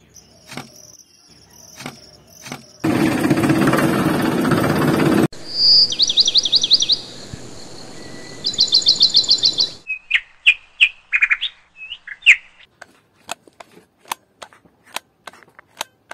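Small birds chirping, with fast trills of repeated high notes and scattered short chirps. About three seconds in, a loud steady mechanical noise runs for a couple of seconds before the birdsong.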